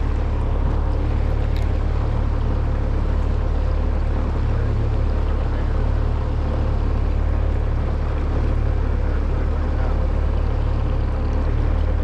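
A boat's motor running steadily: a low rumble with a faint steady hum over it.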